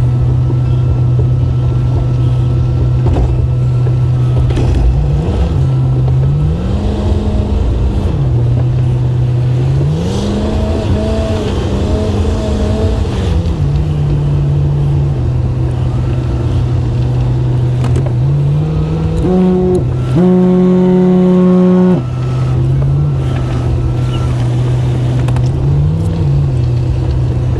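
Pickup truck engine running while spreading salt, its pitch rising and falling several times as the truck speeds up and slows down around the lot. Near the end the engine revs higher and louder for about two seconds, then drops back.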